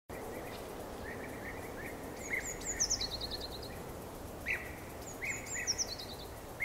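Songbirds chirping over a steady outdoor ambience hiss; a high twittering phrase that falls in pitch comes twice, with shorter, lower chirps between.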